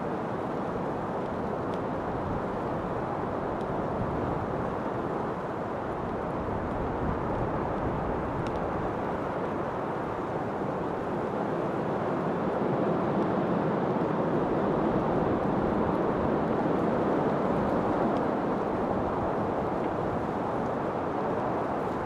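Steady wind blowing as a smooth rushing noise, swelling a little louder about halfway through and easing again near the end.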